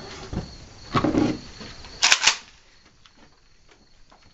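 Gunshots: a louder report about a second in and the loudest, sharpest one just after two seconds, over a steady chirring of crickets.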